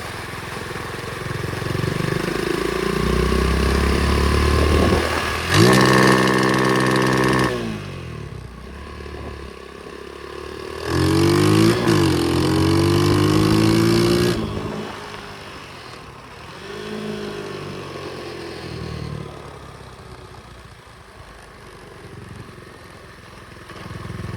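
Small pit bike engine revving up and easing off in bursts, with two loud revs around six and twelve seconds in and two weaker ones later.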